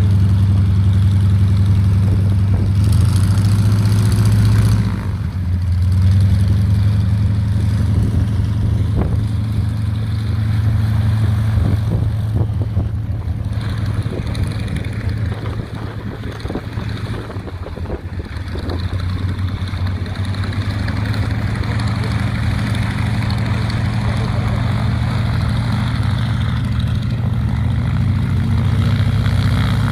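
Propeller aircraft's piston engine running at a steady speed, a low even drone with a slight dip about five seconds in.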